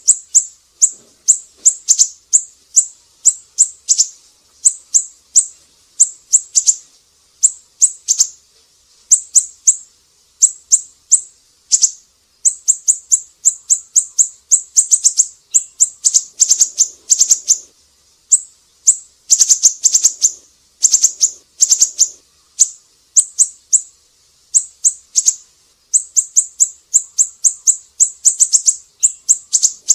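Siri-siri songbird singing: quick clusters of short, sharp, high-pitched chirps, repeated over and over with brief pauses between clusters.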